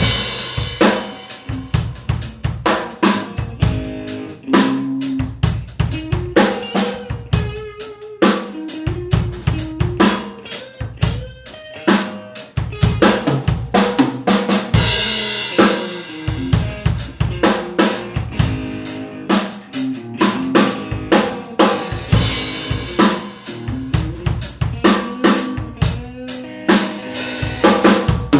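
Improvised fusion-blues jam of guitar and drum kit: the drums keep up a busy beat of bass drum, snare and cymbals while the guitar plays melodic lines over it.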